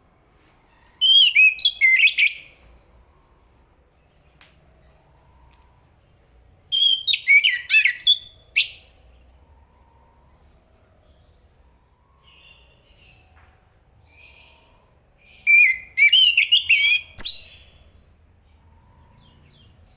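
Chestnut-capped thrush singing: three loud phrases of rapid, varied whistled notes several seconds apart, with a few softer notes between them.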